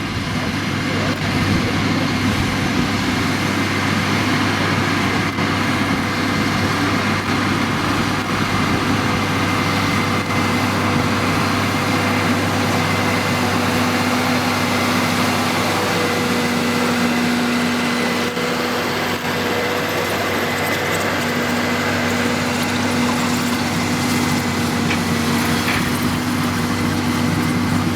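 Claas Challenger 55 rubber-tracked crawler tractor's diesel engine running steadily at work pulling a mole plough, with a thin high whine over the engine note.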